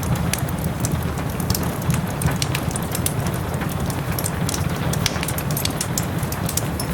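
Wood fire crackling in a fireplace, with many short sharp pops and clicks over a steady low rumble, mixed with the even hiss of steady rain.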